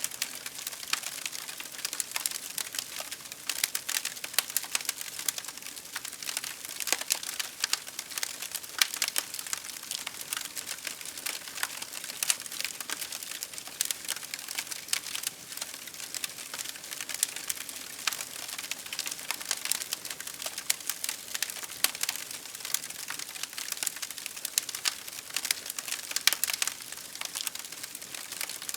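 Wood fire crackling: a dense, irregular run of sharp pops and snaps over a soft steady hiss.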